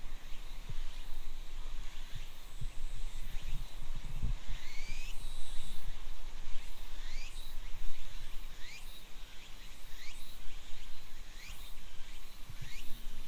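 A bird repeating a short call that sweeps upward in pitch, roughly once a second from about four seconds in, over a steady background hiss, with a few faint low thuds.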